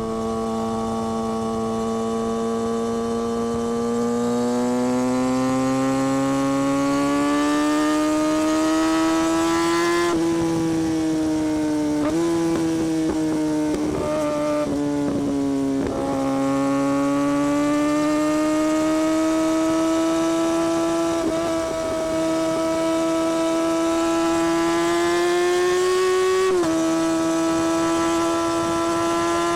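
A 2017 Kawasaki Ninja ZX-6R's inline-four engine and exhaust under way at moderate throttle. Its steady note climbs slowly in pitch, falls for a few seconds near the middle, and jumps suddenly in pitch about a third of the way in and again near the end.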